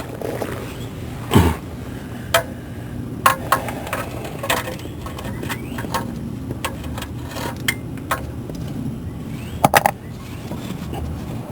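Scattered sharp metallic clicks and clinks of hand tools during work under a car, with a quick run of three near the end. A steady low hum lies underneath.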